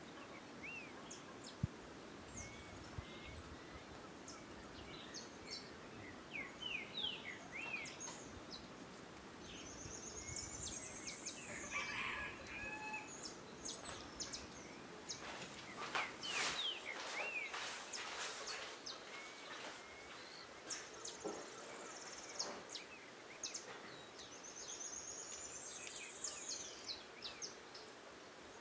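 Forest ambience with several birds calling: many short chirps and two high, rattling trills that rise and then fall. A cluster of sharp clicks comes about halfway through.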